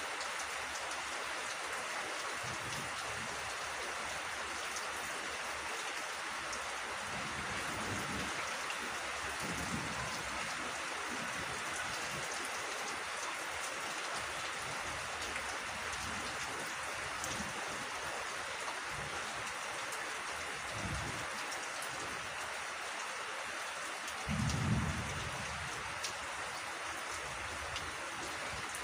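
Steady rain falling, an even hiss, with a few low rumbles; the strongest rumble comes near the end.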